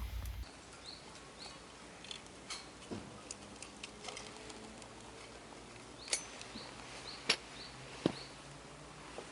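Short, high, rising bird chirps repeating in small groups, with a few sharp clicks and knocks of gear being handled.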